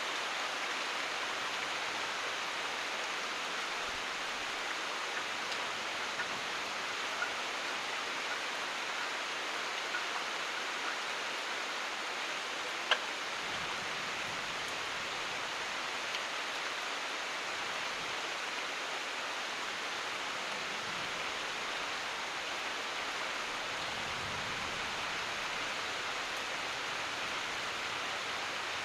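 Steady rain falling, an even hiss, with scattered sharper drops and one louder drop about halfway through.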